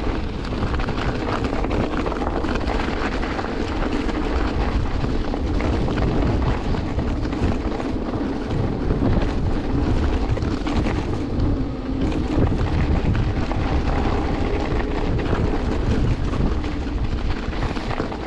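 Wind rushing over the microphone, with steady road and running noise from an electric two-wheeler being ridden in a snowstorm.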